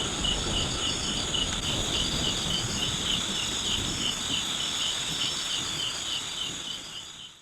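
A chorus of insects chirping: one chirp repeating about three times a second over a steady high-pitched drone from other insects. It fades out near the end.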